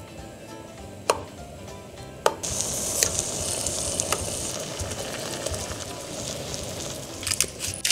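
Tomato slices frying in hot olive oil and butter in a frying pan: two soft taps as slices go in, then a loud steady sizzle that starts about two seconds in. A run of quick clicks near the end.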